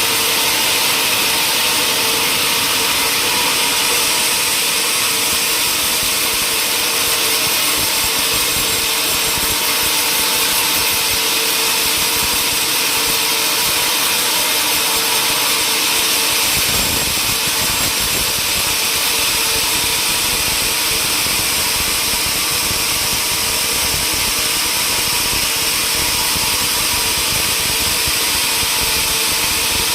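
Sawmill machinery running steadily with a high whine; a deeper rumble joins about halfway through.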